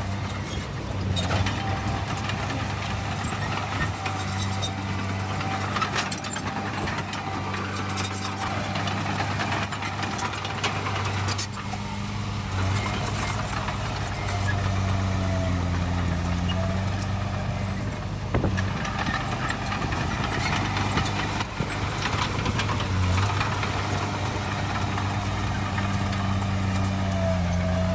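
Heavy diesel engine of earthmoving machinery running with a steady low drone whose pitch sags and picks up now and then, with occasional sharp metallic clanks.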